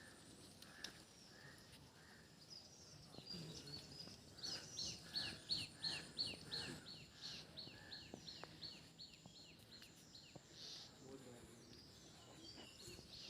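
Birds calling outdoors: a quick series of high, downward-sliding chirps, about four a second, for a few seconds mid-way, with softer, lower repeated notes in the first few seconds.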